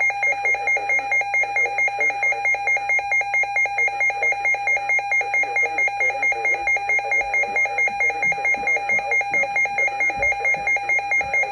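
Weather radio receiver sounding its warning alert: an electronic alarm beeping rapidly and steadily, about four beeps a second, signalling a severe weather warning.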